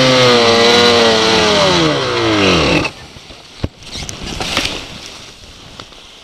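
Snowmobile's 800 E-Tec two-stroke twin engine running at high revs, then winding down in pitch and stopping about three seconds in. A single sharp knock follows shortly after.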